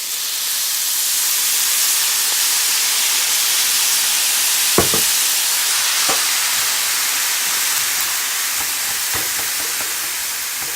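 Fried rice with chicken, carrots and onions sizzling loudly in a hot pan as soy sauce is poured in, a steady hiss that swells over the first two seconds. Two sharp knocks come about five and six seconds in.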